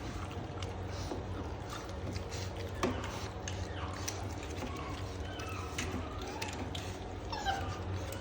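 Puppies chewing and crunching raw chicken: a run of wet clicks and crackles of teeth on meat and bone, with a few short high whines as they jostle over the shared piece.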